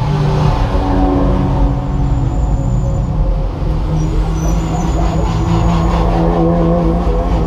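Porsche 911 GT3 Cup race car's flat-six engine running steadily at low revs, heard from inside the stripped-out cabin.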